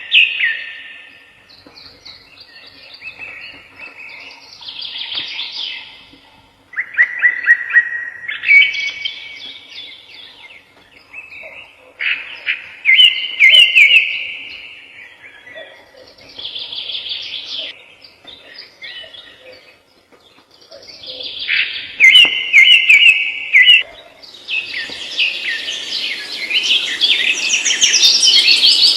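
Songbirds singing: short, high, trilled phrases repeated every few seconds with pauses between, building near the end into a dense chorus of many birds calling at once.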